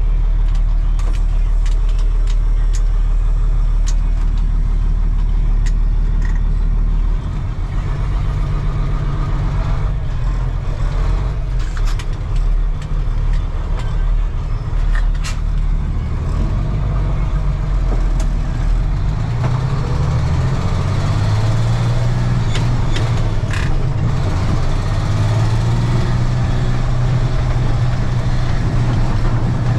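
Diesel engine of a 1995 Ford L8000 truck running steadily. About seven seconds in, the engine note turns rougher. Later its pitch rises and falls twice as the engine speed changes, with scattered clicks and rattles.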